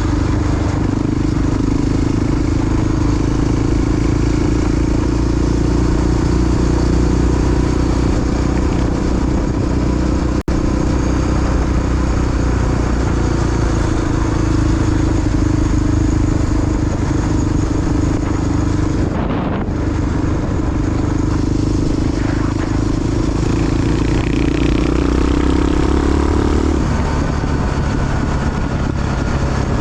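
Big single-cylinder four-stroke engine of a Honda XR dual-sport motorcycle running steadily under way, over a constant rush of noise. The engine note shifts near the end.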